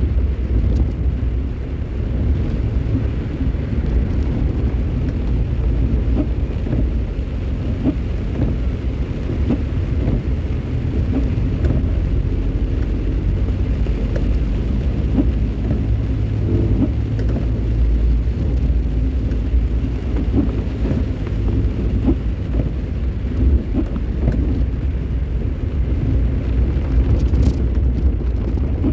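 A vehicle driving in the rain: a steady low rumble of engine and road noise with rain mixed in.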